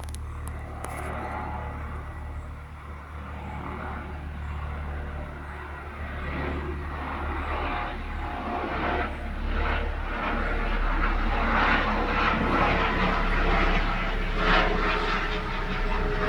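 A train approaching, its running noise with a low hum growing steadily louder through the second half.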